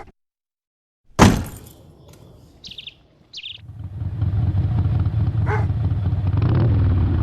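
A sudden loud thump about a second in, then birds chirping briefly; from about halfway a motorcycle's engine rumble sets in and runs on steadily.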